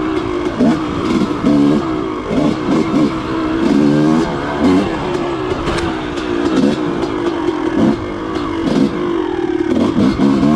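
Dirt bike engine being ridden, its pitch repeatedly rising and falling as the throttle is opened and closed.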